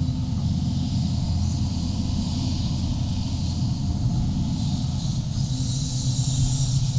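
Diesel engine of a 35-ton Sumitomo SH350-HD-5 hydraulic excavator running steadily under load while it digs, with a higher hiss that swells and fades.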